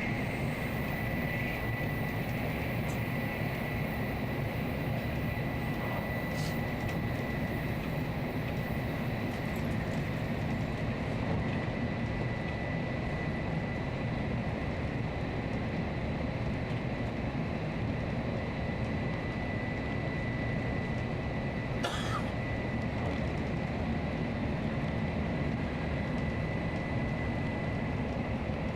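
Steady running noise of a Nozomi Shinkansen bullet train, with a thin steady high tone over it and a brief click about 22 seconds in.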